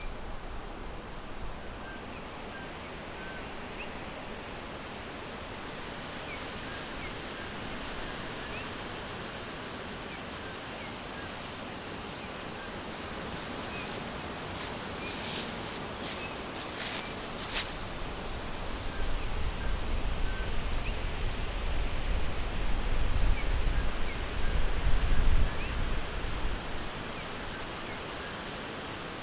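Forest ambience: a steady hiss with faint, sparse bird chirps scattered through it. There are brief rustles around the middle, and a low rumble swells and fades in the last third.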